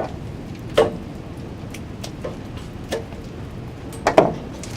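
Wooden sticks clicking and knocking now and then as they are woven into a stick sculpture, over a steady low background rumble.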